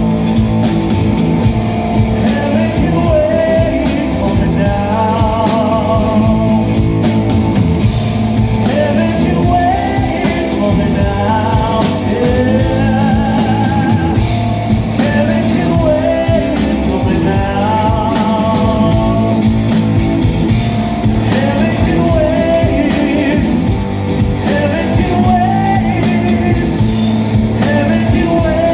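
Rock band playing live: a singer holding wavering, vibrato notes over guitar and drums, loud and continuous.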